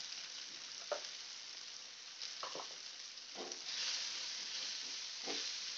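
Chopped onion and tomato with turmeric sizzling in hot oil in a frying pan, with a few short scrapes of a spatula stirring it; the sizzle grows louder a little past halfway.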